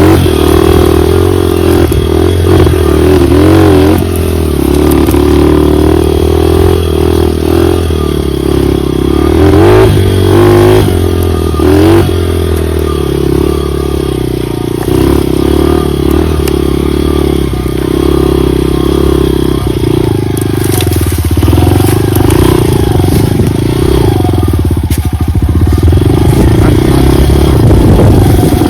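Dirt bike engine running continuously as the bike is ridden, its pitch rising and falling with the throttle.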